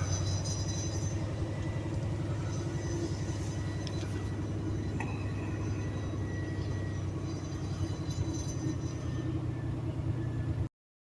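Semi truck's diesel engine running with a steady low rumble, heard from inside the cab, cutting off suddenly near the end.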